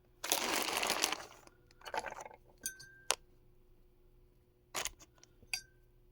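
Hand-tool handling while sculpting: a rustling scrape, then a few light clinks and taps as small tools are picked up and set down, two of the clinks ringing briefly.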